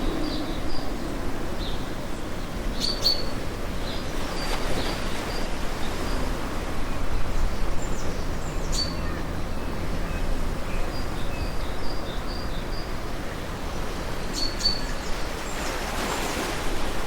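Steady wash of ocean surf with small birds chirping now and then over it, in short high calls that come in little clusters.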